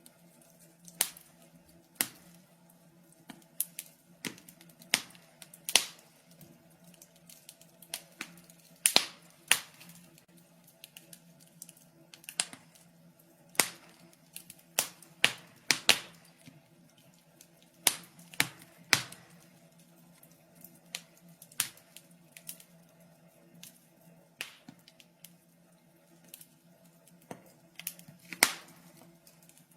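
Wood fire crackling in a fireplace: irregular sharp pops and snaps, one or two a second, some much louder than others, over a faint low steady hum.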